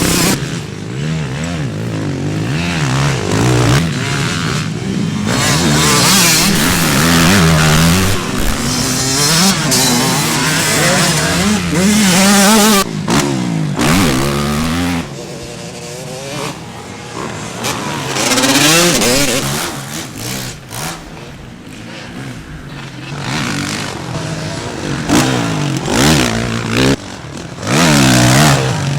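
Motocross bike engines revving hard and dropping back again and again as bikes race by, with the engine note rising and falling repeatedly. The sound is quieter for a stretch in the middle and loud again near the end.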